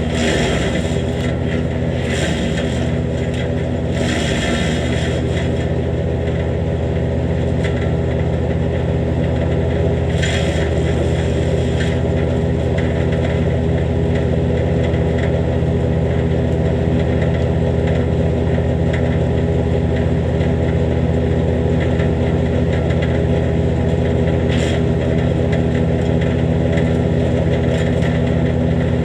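Jansen GTS-1500 wood chipper's engine running steadily at an even speed, with short rushes of rasping noise over it during the first few seconds and again briefly about ten and twenty-five seconds in.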